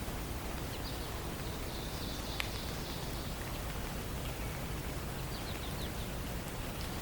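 Songbirds calling: a few short high chirps and a high buzzy trill lasting about a second, over a steady background hiss, with one sharp click about two and a half seconds in.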